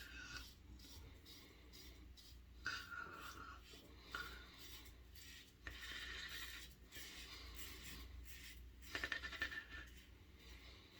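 Gillette Red Tip safety razor with a fresh Kai blade scraping through lathered stubble in a series of short, faint, rasping strokes.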